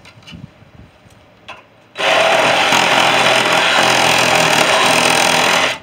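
A power tool runs steadily and loudly for nearly four seconds, starting abruptly about two seconds in and cutting off just before the end. A few faint clicks come before it.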